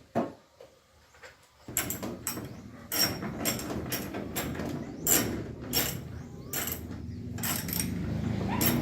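Irregular knocks and clicks of things being handled, over a steady noise that comes in about two seconds in and grows louder.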